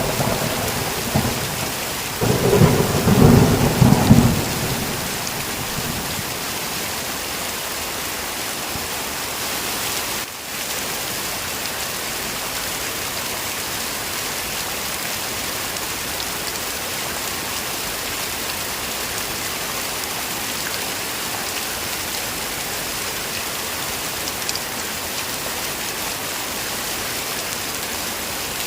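Steady heavy rain, with thunder rumbling in the first few seconds: a roll dying away at the start and a second, louder roll about two seconds in that fades out by about five seconds.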